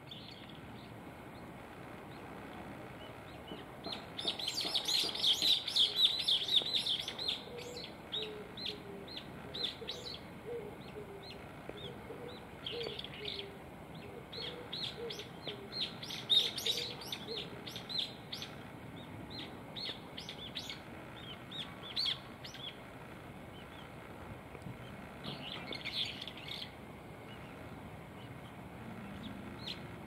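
A bird chirping: a fast, dense run of short high chirps about four seconds in, then scattered single chirps, and another brief flurry near the end.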